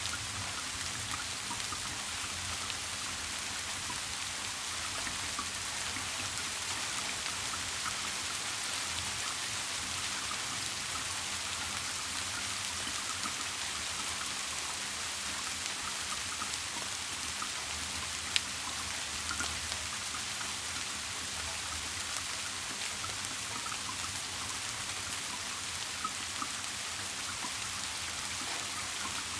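Steady rain falling, an even hiss with the patter of individual drops, and one sharp click about two-thirds of the way through.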